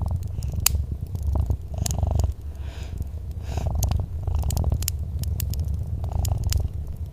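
Domestic cat purring, a low continuous rumble that swells and eases with each breath. A wood fire crackles over it with scattered sharp pops.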